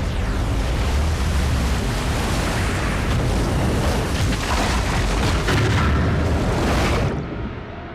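Film sound effects of a giant flood wave: a loud, deep rushing roar of water. It cuts off abruptly about seven seconds in.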